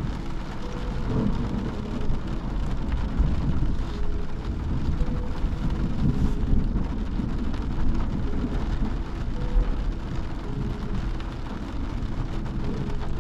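Rain falling on a car's roof and windscreen, heard from inside the cabin, over a steady low rumble.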